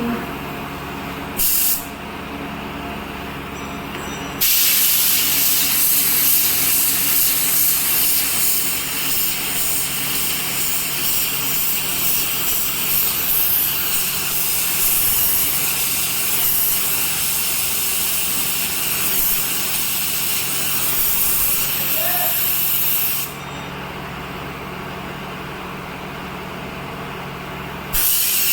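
Steady motor hum under a loud hiss of compressed air. The hiss comes in a short burst early on, then runs steadily for about nineteen seconds with sudden start and stop, and bursts again near the end.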